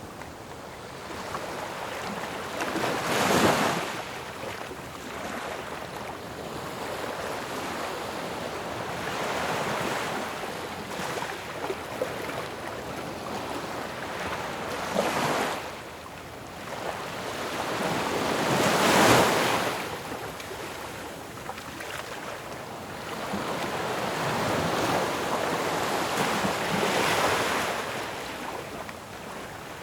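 Ocean waves breaking on a shore over a steady wash of surf, the largest crashes coming about three and a half seconds in and again around fifteen and nineteen seconds in.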